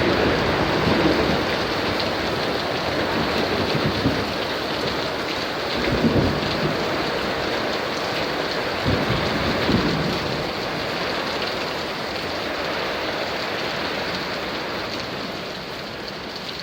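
Heavy rain pouring steadily in a thunderstorm, with low rumbles of thunder about a third of the way in and again just past the middle. The downpour eases a little near the end.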